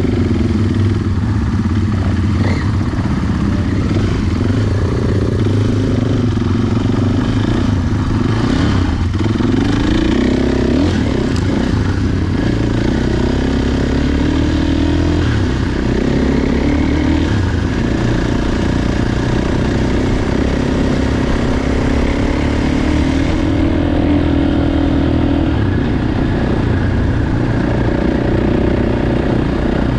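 Motocross motorcycle engine running under way, cutting in abruptly at the start; its pitch rises and falls again and again with throttle and gear changes.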